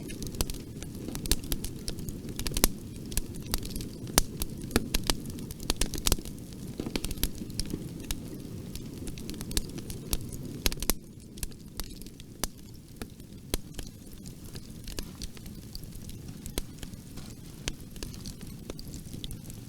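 A bonfire crackling, with frequent sharp pops and snaps over a steady low rush of burning. A little past halfway it becomes slightly quieter and the pops come less often.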